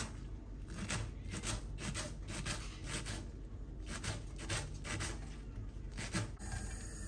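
Repeated rasping, scraping strokes, roughly two a second, that stop about six seconds in.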